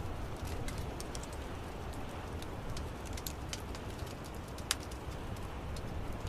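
Wood fire crackling: a steady low rumble of burning with scattered sharp pops and snaps, one louder pop about three-quarters of the way through.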